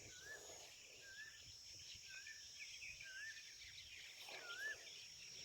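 Faint outdoor ambience: a bird repeats a short, curling whistled note about once a second, five times, over a steady high insect drone.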